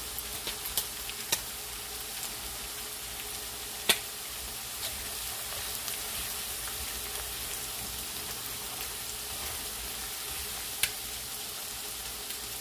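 Chopped onions and ground spices frying in hot oil in a metal pot, a steady sizzle as they are stirred with a spatula. A few sharp clicks sound over it, the loudest about four seconds in and another near the end.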